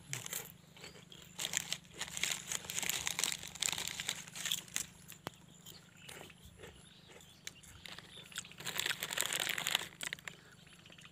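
Close-up chewing and crunching of food, in irregular bursts with a couple of busier stretches.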